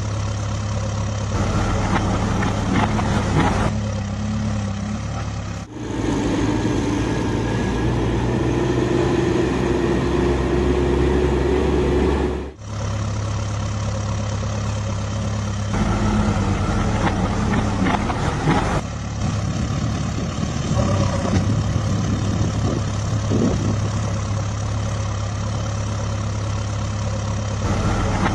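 Heavy diesel engine of a JCB 5CX backhoe loader running steadily while it works loading mud into a truck. The sound changes abruptly several times as clips are cut together.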